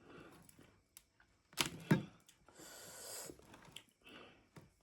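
Eating sounds close to the microphone: scattered wet mouth clicks and smacks, loudest about two seconds in, and a breathy intake of air about three seconds in.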